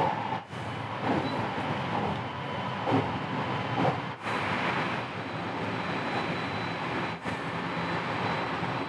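Rapid Marine Liner electric train running at speed, with steady wheel-on-rail and running noise heard from inside the front car. After about four seconds the noise grows brighter and fuller as the train runs through a tunnel. The sound drops out briefly three times.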